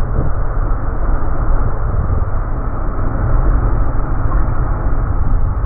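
Freight train of container flatcars rolling past, its wheels and cars making a steady deep rumble. The recording is slowed down, so the running noise is stretched and lowered in pitch.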